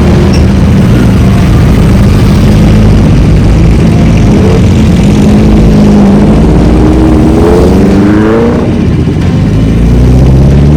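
Sport motorcycle engine running hard under acceleration: steady at first, then its pitch climbs for a couple of seconds, drops at a gear change, and climbs again near the end.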